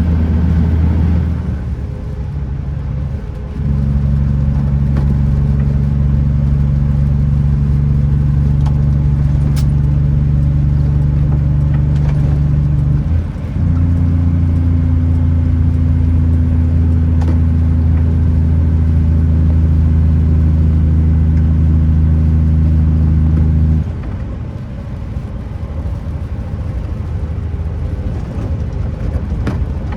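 Kenworth T909 truck's diesel engine pulling on the road with a steady low drone. The engine note drops away briefly about two seconds in and again around thirteen seconds, as gears are changed, and comes back a little higher each time. Near the end the note fades and a quieter, rougher road rumble is left.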